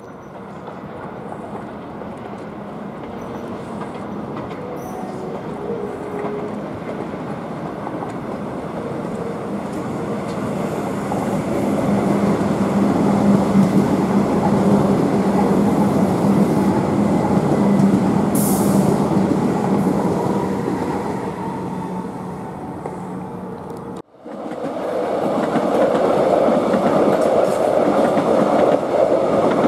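Melbourne Metro electric suburban trains passing on the tracks below: the rumble of one train builds to a peak with a steady low hum, with a brief high-pitched sound about two-thirds of the way through. After a sudden break near the end, another train passes loudly.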